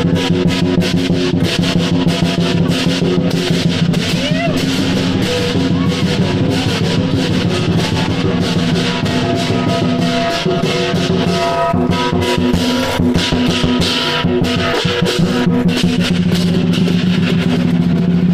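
Chinese lion dance percussion: a drum beaten fast with rapid clashing cymbals over a steady ringing gong, loud and continuous throughout.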